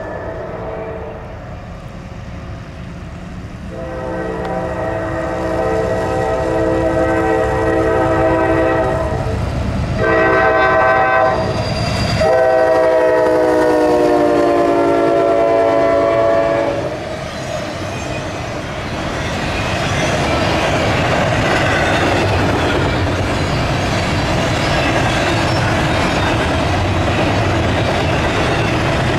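A freight train's diesel locomotive sounds its multi-chime air horn in three blasts: a long one, a short one, then a long one whose pitch drops as the locomotive passes. The rumble and rattle of double-stack container cars rolling by follows.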